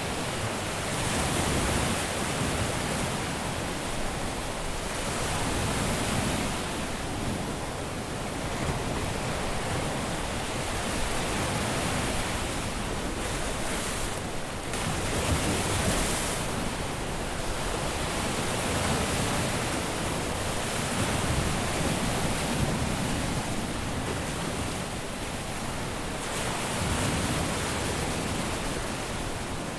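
Caribbean surf breaking on a beach: a steady wash of waves that swells and eases every few seconds as each wave comes in.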